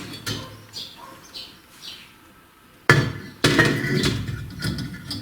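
Metal parts knocking and clanking with a ringing tail: a few faint light clinks, then about three seconds in a sudden loud knock followed by a run of further ringing clanks.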